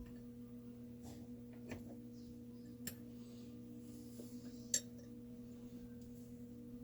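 A steady low electrical hum, with three small clicks of chainsaw engine parts being handled during piston ring fitting. The loudest click comes a little after the middle.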